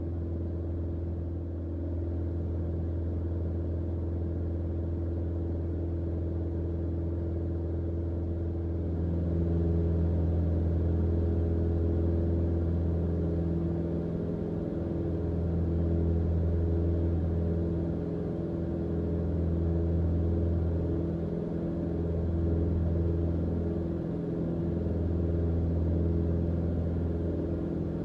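Steady drone of a Mooney M20J's four-cylinder Lycoming engine and propeller in flight, heard from the cockpit. From about nine seconds in it slowly swells and fades every few seconds.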